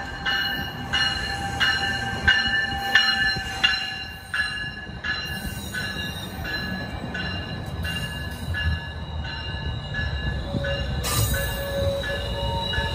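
GO Transit bilevel commuter train pulling into the platform, its bell ringing about one and a half strikes a second, the strikes fading after about five seconds. Under the bell the coaches roll by with a steady rumble, and a thin wheel squeal comes in near the end.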